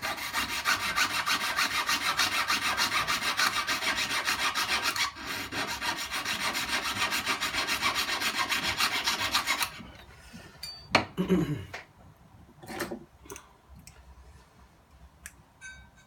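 Jeweller's piercing saw cutting through the shank of a 9 carat gold ring in rapid, even back-and-forth strokes, taking out a small piece to size the ring down. The sawing stops briefly about five seconds in and ends at about ten seconds, followed by a few light knocks and clicks.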